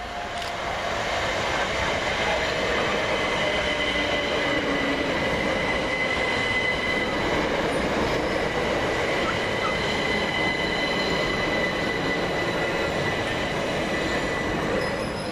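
Southern Class 377 Electrostar electric multiple unit running into the platform: a steady loud rumble of wheels on rail with a thin, steady high tone and a whine that falls in pitch over the first few seconds as it slows. The sound fades near the end.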